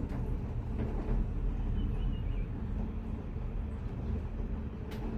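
Cable car gondola running along its cable: a steady low rumble, with a single sharp click near the end.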